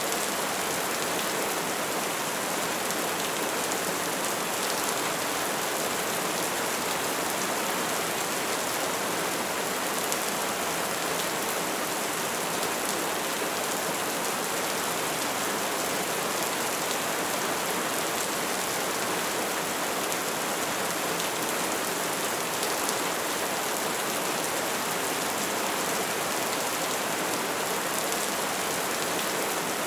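Steady soft rain falling, an even hiss of many small drops with no breaks.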